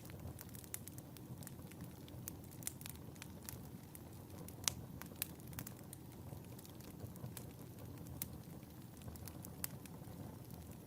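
Wood fire burning in a fireplace: a soft low rumble of the flames with frequent sharp, irregular crackles and pops, one louder pop about halfway through.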